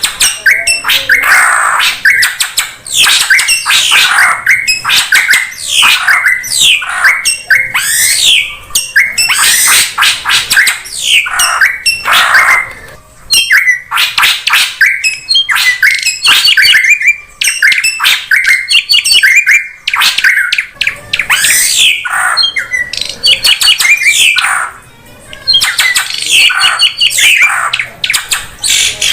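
Drongo (srigunting) calling loudly and almost nonstop: a busy run of quick notes that slide up and down in pitch, with a few short lulls. A bird-trapping lure call.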